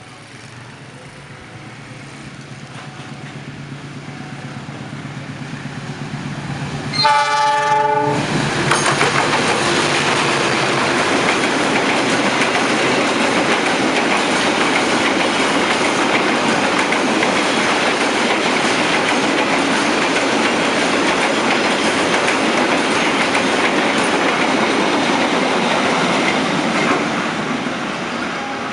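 CC206 diesel-electric locomotive approaching, its engine hum growing louder, then sounding its horn once for about a second as it arrives. The fuel tank-wagon train then rolls past with steady wheel clatter on the rails, easing off a little near the end.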